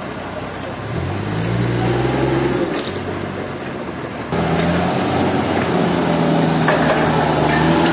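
An engine running steadily, its pitch shifting a few times. About four seconds in it jumps suddenly louder.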